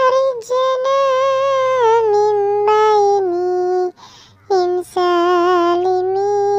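An edited, high-pitched singing voice holding long sustained notes of a sholawat melody with slight vibrato, stepping down in pitch from phrase to phrase, with a short pause a little past the middle.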